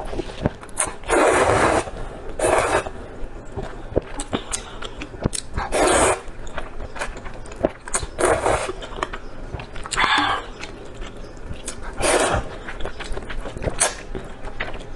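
A person slurping thick snail-noodle (luosifen) rice noodles in about seven separate pulls, each up to a second long, with small wet mouth clicks and chewing between them.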